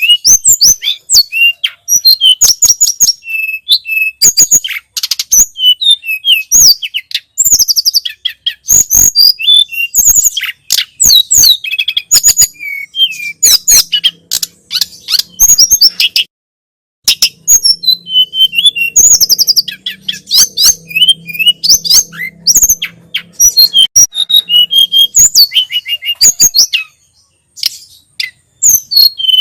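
Tledekan gunung (sulingan gunung) songbird singing a loud, fast run of high chirps and twittering whistles, almost without pause, with one brief break about halfway through.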